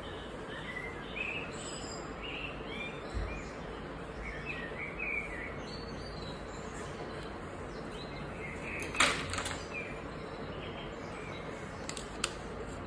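Small birds chirping now and then over a steady background hiss, with one brief, louder rustling clatter about nine seconds in and a couple of faint clicks near the end.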